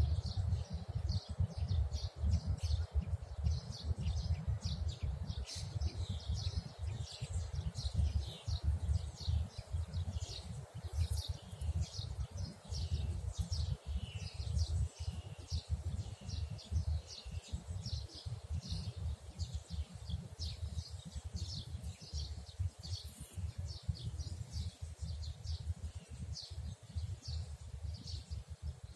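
Songbirds chirping continually, short high chirps several a second, over a constant low rumble.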